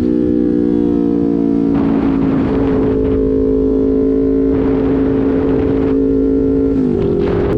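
Motorcycle engine running at a steady cruise. Its pitch eases down slightly over the first couple of seconds, holds, then dips briefly near the end as the revs change. Wind noise rushes over the microphone in patches.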